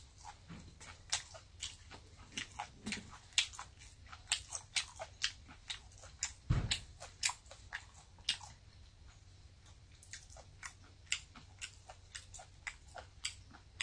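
Close-miked chewing of a mouthful of blanched beef omasum (cheonyeop) with liver and cabbage: a string of crisp, irregular crunches, a few per second, from the omasum's springy, crunchy texture. There is a single dull thump about halfway through.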